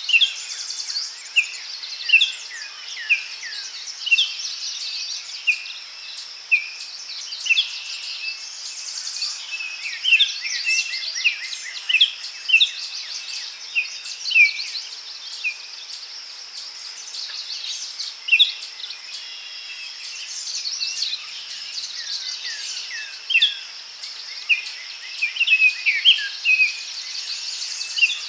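Daytime forest ambience: many short, sharp bird chirps over a steady high-pitched insect buzz.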